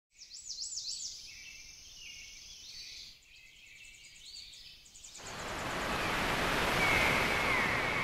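Birds chirping in quick, high, sweeping calls, then about five seconds in a rush of noise swells up and stays loud, with a thin high steady tone coming in near the end.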